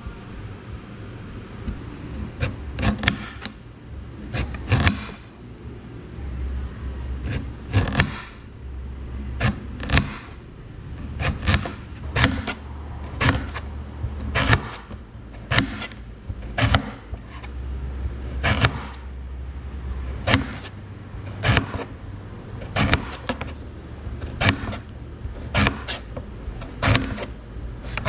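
Knife cutting white radish on a cutting board, sharp chops about once a second at an uneven pace, over a low hum that comes and goes.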